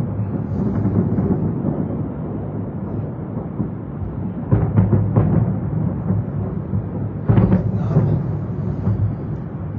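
Distant fireworks booming in a steady low rumble of overlapping bursts, with sharper bangs about four and a half and seven seconds in.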